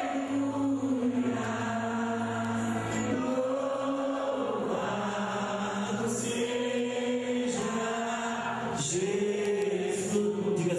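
Slow sung worship music: voices singing a hymn in long held notes that change pitch every second or two.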